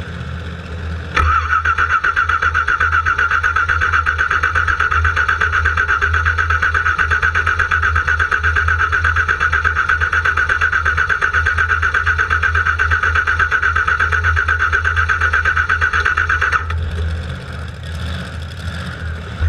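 Car engine cranking on its electric starter for about fifteen seconds without catching, an even, rapid pulsing whirr that stops abruptly: a no-start.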